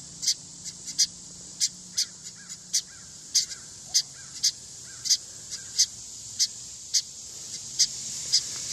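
A bird giving short, high chirps over and over, a little under two a second, at an even pace.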